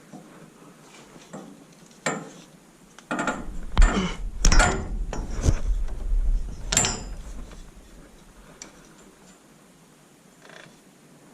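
A run of knocks and clanks from tools and metal fittings being handled, loudest from about three to seven seconds in over a low rumble, then a few faint clicks.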